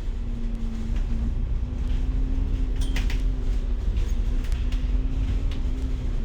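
Bus running, heard from inside the cabin: steady engine and road rumble with a low droning tone, and a brief rattle about three seconds in.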